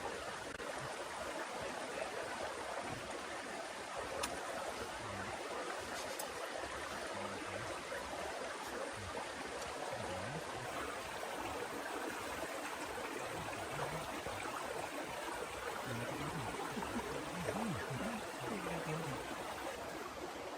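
Heavy rain falling steadily, an even rushing hiss that does not let up, with a couple of faint ticks a few seconds in.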